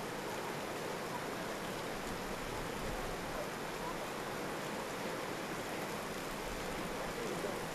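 Typhoon wind and heavy rain making a steady, unbroken rushing noise.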